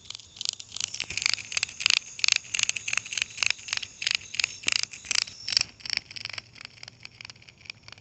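Cicadas calling: a fast run of sharp rasping pulses, about three a second, loudest in the middle and fading near the end, over a steady high-pitched insect chorus.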